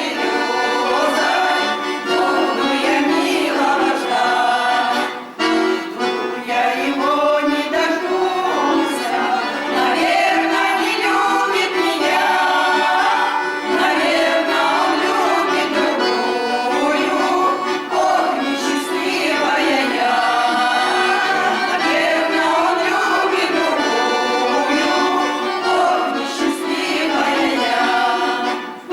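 Accordion music with voices singing along.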